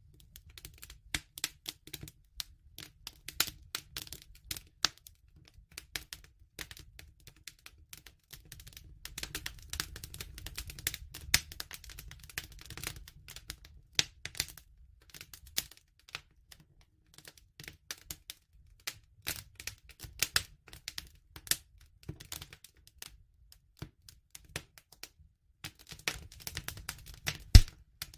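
Wood fire crackling: irregular snaps and clicks over a low steady rumble of the flames, with one loud pop near the end.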